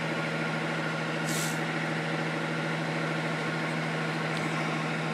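Truck engine running steadily, with a brief high hiss about a second and a half in.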